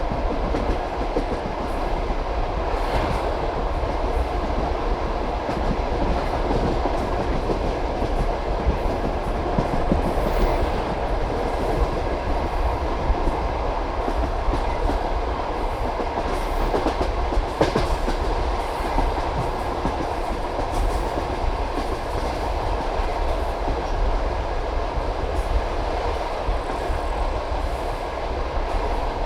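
A passenger railway carriage running along the track: a steady rumble of wheels on rails, with occasional sharp clacks of the wheels striking rail joints.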